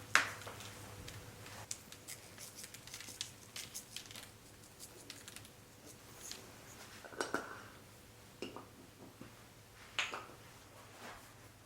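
Light clicks, taps and scrapes of small objects being handled, with a sharp click at the start and louder knocks about seven and ten seconds in.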